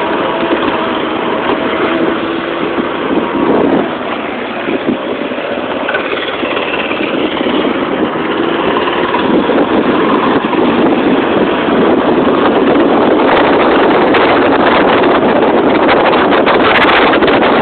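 Small single-cylinder engine of a mini bike or scooter running, getting louder in the second half, with wind buffeting the microphone near the end.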